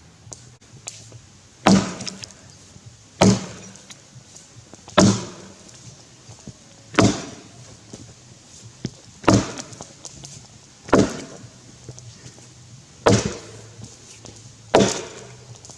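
Tassie pattern axe chopping into a grey gum log: eight heavy strikes, one about every two seconds, each a sharp thunk with a short ring.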